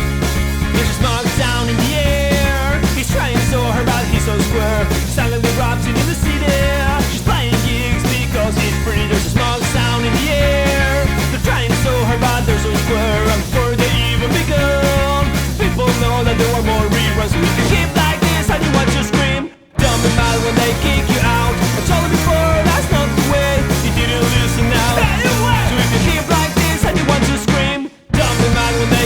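Rock band playing an instrumental passage with no sung words. The music cuts out for a split second twice: about two-thirds of the way in and again near the end.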